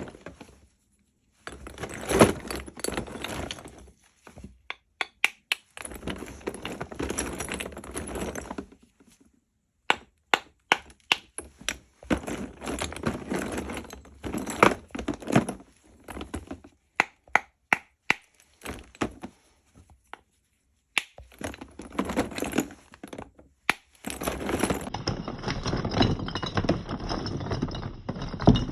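Lumps of natural chalk being broken apart: runs of sharp cracks and snaps with gritty crumbling between them, broken by short pauses. Near the end a steadier crumbling rustle takes over.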